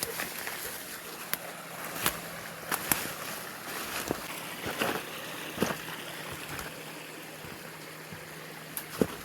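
Steady rushing of creek water, with scattered crunches and snaps of footsteps through brush and debris.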